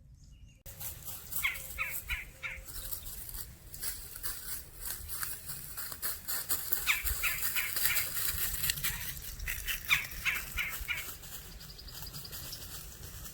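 Birds calling: three runs of four or five short calls in quick succession, over a steady background hiss.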